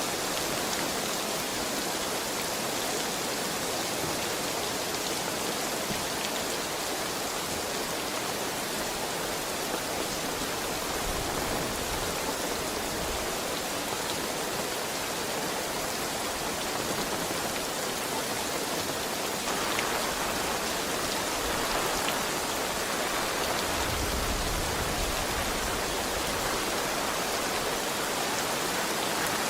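Heavy rain falling steadily, with the hiss growing a little fuller about twenty seconds in.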